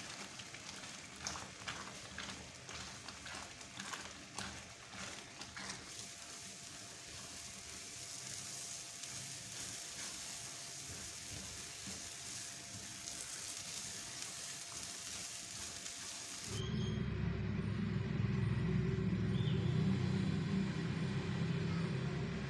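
Semolina halwa sizzling in a nonstick pan as it is stirred with a spatula, with quick scraping taps of the spatula in the first few seconds. About three-quarters through, this cuts off suddenly and a louder, low steady hum takes over.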